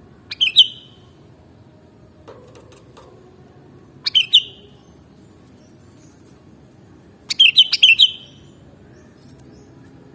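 Sooty-headed bulbul (kutilang) calling: three short bursts of quick, bubbly notes a few seconds apart, the last one longest.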